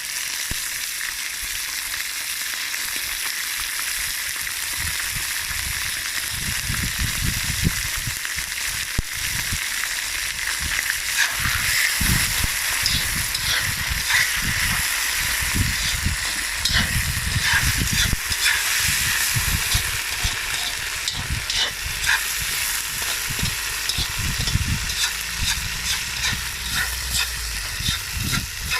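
Lamb and fat-tail fat frying in hot oil in a kazan, a steady crackling sizzle. From about six seconds in there are irregular low bumps and knocks.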